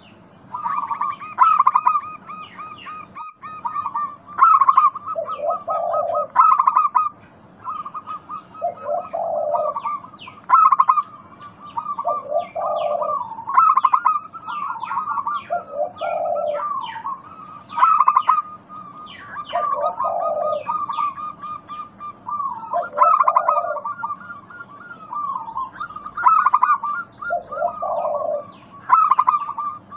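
Zebra doves (perkutut) cooing in a repeated song, one phrase about every three to four seconds, each phrase closing on a lower drawn-out note, with more than one bird overlapping. The doves are calling at the rate used to coax quiet perkutut into singing.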